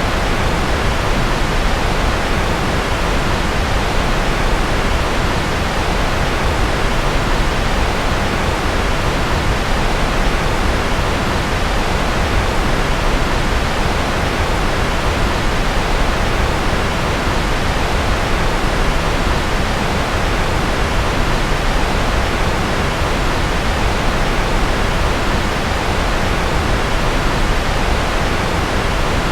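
Steady, unchanging rushing noise, fuller in the low end than hiss, in the manner of pink noise: a continuous white-noise sleep track billed as rocket noise.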